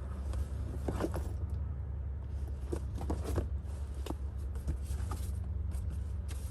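Purses being handled and rummaged through by hand: scattered clicks and rustles of bag material and hardware, over a steady low rumble.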